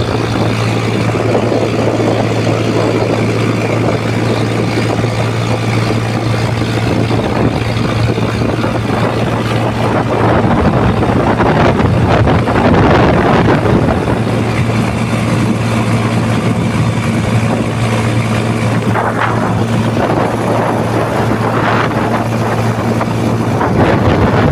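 A steady low motor drone with a broad rushing noise over it, running without a break. A second, higher steady hum joins about halfway through.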